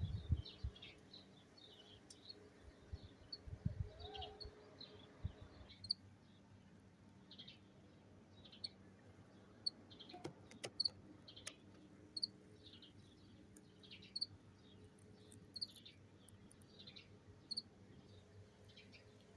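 Small birds chirping faintly, short high notes repeating about once a second, with a few low rumbles of wind on the microphone during the first five seconds.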